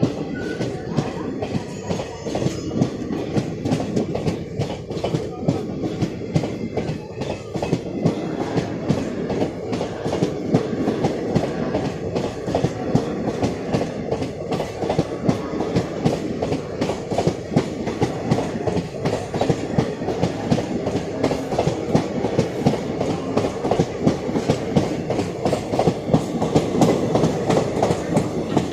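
Passenger coaches of a departing express train rolling past on the track, the wheels clattering steadily over rail joints.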